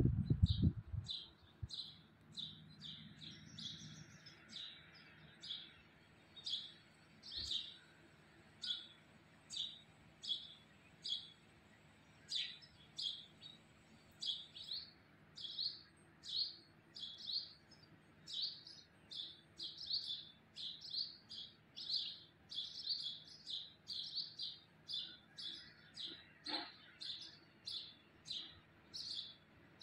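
A small bird chirping over and over: short, high single chirps, about one to two a second, coming faster and more evenly in the second half.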